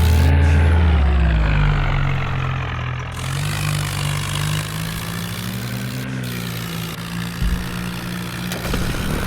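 Massey Ferguson tractor's diesel engine running, its heavy low note easing off in the first couple of seconds, then running on steadily with small rises and falls in engine speed.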